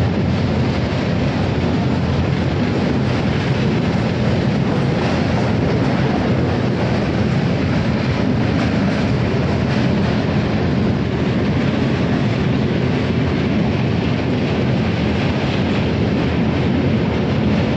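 Passenger train running steadily at speed, heard from on board as it crosses the bridge over the Ganges: a continuous, even rumble.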